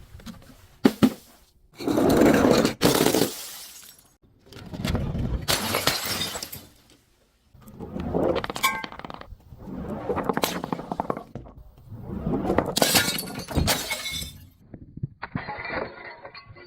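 Glass bottles breaking and being crushed: about six separate bouts of crunching and shattering glass, each a second or two long, with sharp cracks just before the first second and again a little before the third. Near the end the crunching turns duller.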